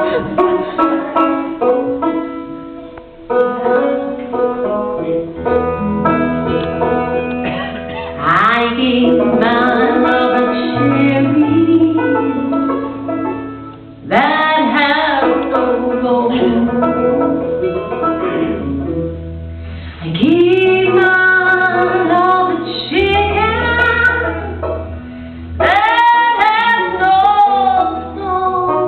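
A campfire-song medley: a woman singing over plucked-string accompaniment. The strings play alone at first, and the voice comes in about eight seconds in, singing in phrases a few seconds apart.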